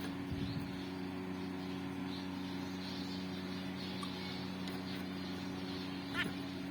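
A steady low hum runs throughout, with a single short bird chirp about six seconds in.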